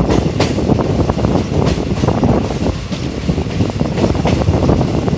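Passenger train running at speed, heard from an open window of its coach: a continuous rumble of wheels on the rails with rapid clatter and a few sharper clanks.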